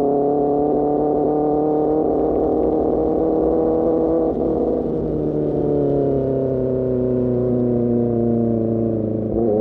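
Sportbike engine running through an Austin Racing GP1R aftermarket exhaust while riding: the note rises slowly, dips briefly about four seconds in, then falls steadily as the revs drop, with a short break near the end.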